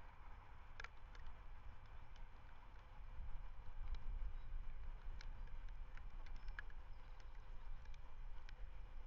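Wind rumbling on an outdoor webcam microphone, a little stronger about three seconds in, with scattered faint ticks and clicks.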